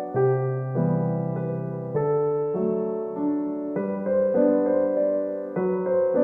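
Background music: a soft piano playing slow sustained chords.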